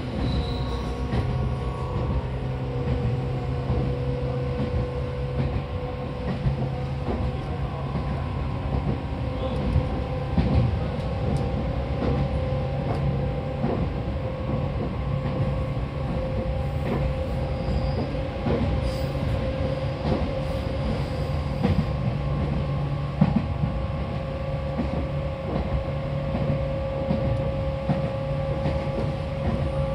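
Seibu 4000 series electric train running between stations, heard from inside the car: a steady hum from the motors and gears over the rumble of the wheels, with frequent clicks and knocks from the track.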